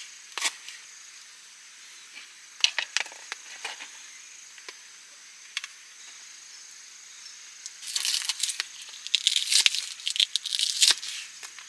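Scattered sharp clicks and taps, then about eight seconds in a few seconds of dense crinkling and crackling, like something being handled or rustled close by.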